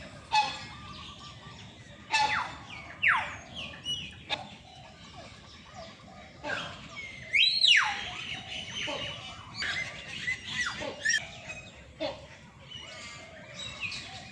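A mix of caged birds calling and chirping over one another: many short whistles and downward-sliding calls, with the loudest a rising-then-falling whistle about halfway through.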